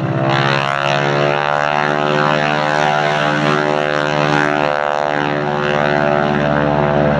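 Propeller aircraft engine running, its pitch rising over the first second and then holding steady.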